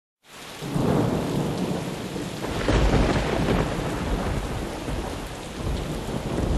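Thunderstorm: heavy rain with rolling thunder, starting suddenly out of silence. A deep thunder rumble swells about three seconds in.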